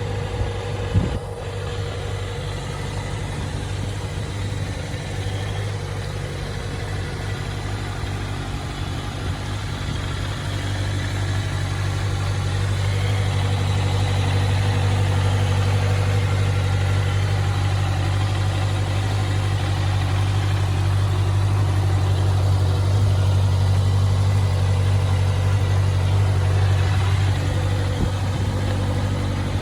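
Honda CBR650F's inline-four engine idling steadily, its low hum growing louder partway through.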